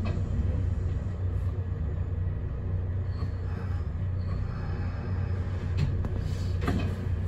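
Kintetsu electric train running on the rails, heard from inside the leading car: a steady low rumble with a few short clacks from the wheels near the end.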